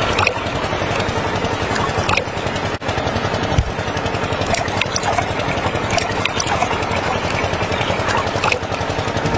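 Small diesel engine running steadily, with a fast chugging pulse and a few sharp clicks.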